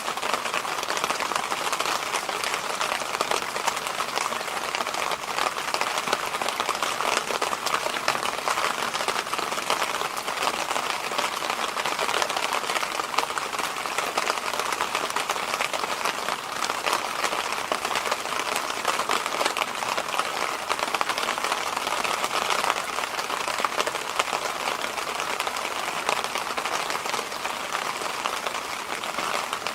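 Electric fan running steadily: a constant rush of air with very little low hum and no changes.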